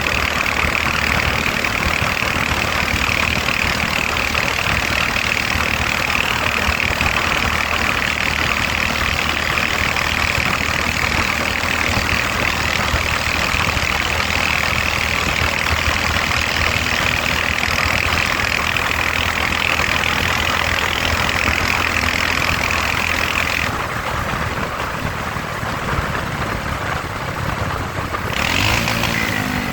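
Motorcycle engine running steadily under a constant hiss. The hiss drops away about 24 s in, and the engine note rises near the end.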